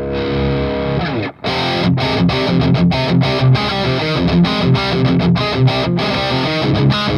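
Distorted electric guitar played through the EVH Iconic amp on its own, without the overdrive pedal: a chord rings out for about a second, breaks off briefly, then a fast, choppy riff follows with many short stops between notes.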